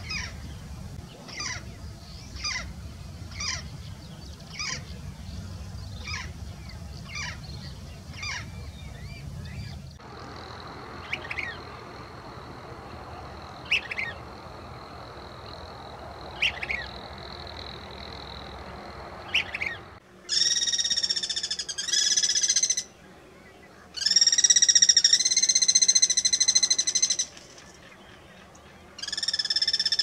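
Wild birds calling in three separate recordings. First a green parrot gives short calls about once a second. About a third of the way in, a few short calls come over a steady high tone. From about two-thirds of the way in, loud, long calls follow one another, each lasting a second or more.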